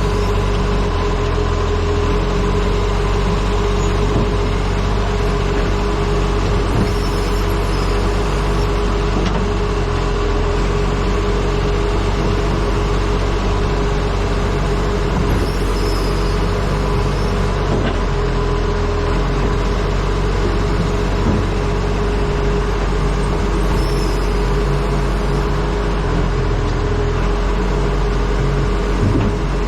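Acco truck's engine running steadily while driving, with wind noise on the front-mounted camera's microphone.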